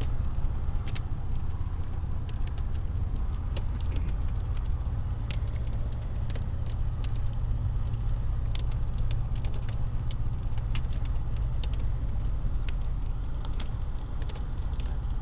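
Car driving with a steady low road and engine rumble, while small pea-sized hailstones strike the car's body and windows in irregular sharp ticks.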